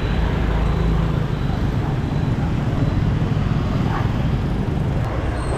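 Steady road traffic noise: a continuous rumble of passing vehicles.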